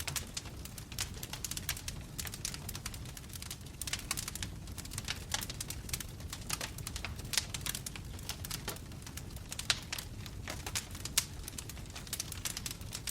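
Wood fire in a fireplace crackling, with quick irregular pops and snaps over a low, steady rumble of the burning logs. A few pops in the second half stand out louder than the rest.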